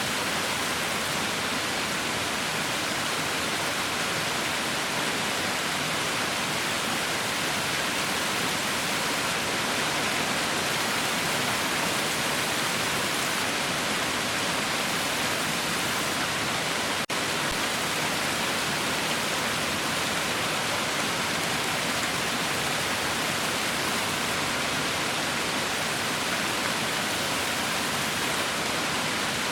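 Heavy rain falling: a steady, even hiss with one momentary break a little past halfway.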